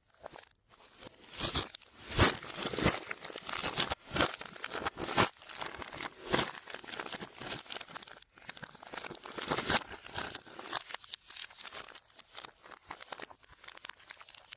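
Slime being worked and squished by hand, giving a dense, irregular run of crackling, crunchy pops with a couple of brief pauses.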